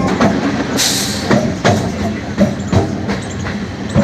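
MEMU electric train coach running along the track, heard from inside: a steady rumble with irregular knocks of the wheels over rail joints, and a short hiss about a second in.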